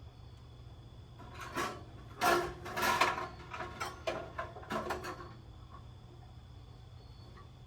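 Metal grill parts clattering and knocking as they are handled and fitted, a run of clanks and scrapes lasting a few seconds, loudest in the middle.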